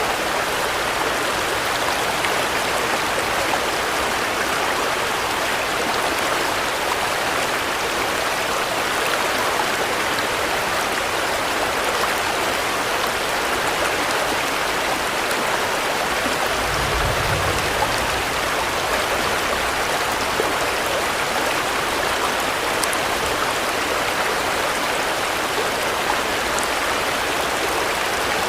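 Steady rain falling, a dense even hiss with no let-up. A brief low rumble comes about seventeen seconds in.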